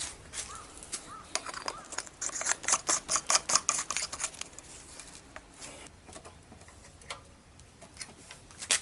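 Hand tool scraping at a metal CB750 front brake part: scattered light clicks, then a burst of quick scraping strokes about two seconds in that eases off after about four and a half seconds, with a sharp tick near the end.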